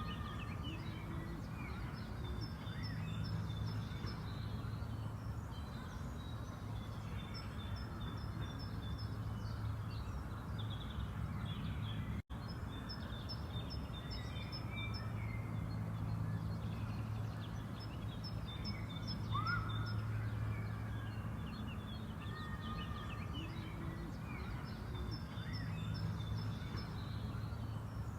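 Songbirds singing in short phrases that recur every few seconds, over a steady low rumble. The sound cuts out for an instant about twelve seconds in.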